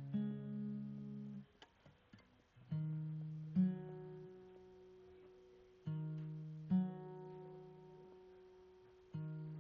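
Background music: an acoustic guitar playing slow chords, each struck and left to ring out, with a new chord about every three seconds and a short break about a second and a half in.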